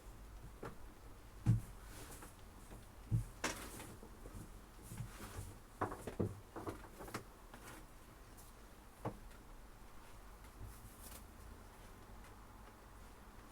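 Gill nets and their ropes being handled: scattered light knocks, taps and rustles at irregular times, the loudest about a second and a half and three seconds in, thinning out in the second half, over a low steady rumble.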